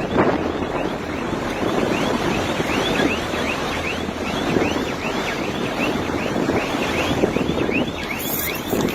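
Strong wind and a wind-driven wildfire rushing and buffeting the microphone, with a high chirping tone repeating about three times a second over it.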